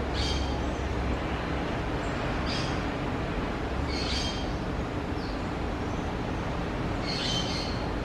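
Short, high bird calls, four of them spaced a second or two apart, over a steady low background rumble.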